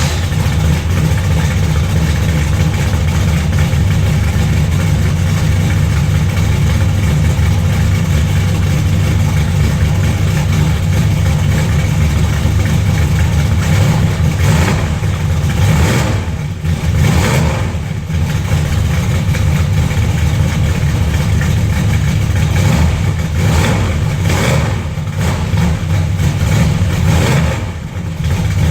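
Chevrolet 327 small-block V8 running through a 2½-inch Jegs exhaust with turbo mufflers, idling just after start-up. The throttle is blipped a few times about halfway through and again near the end.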